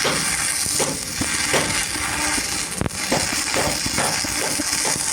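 A run of short, irregular knocks or taps, about two to three a second, with the sharpest one about three seconds in, over a steady hiss.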